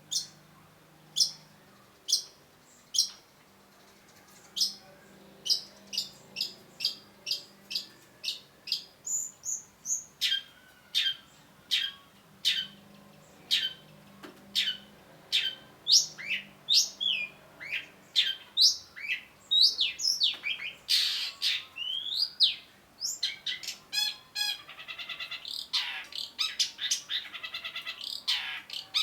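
Long-tailed shrike singing: a string of sharp, high, down-sweeping notes, spaced about a second apart at first and quickening to two or three a second. Near the end the notes turn into rapid rattling trills.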